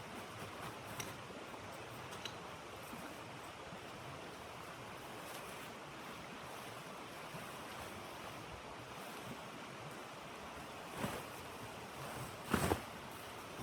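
Steady rushing of blizzard wind. A few light clicks come in the first seconds, and two louder knocks near the end.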